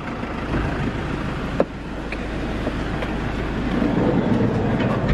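Motor-vehicle noise close by, a steady rumble and hiss that grows louder toward the end, with one sharp click about one and a half seconds in.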